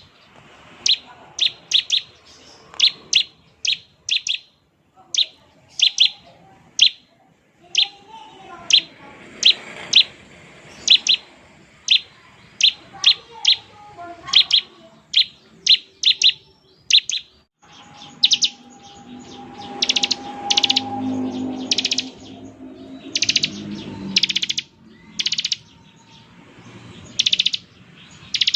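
Bar-winged prinia (ciblek) singing in the rapid 'ngebren' style. For the first two-thirds it gives a run of short, sharp high notes, about two a second. After that the notes become longer and buzzier, with wider gaps between them.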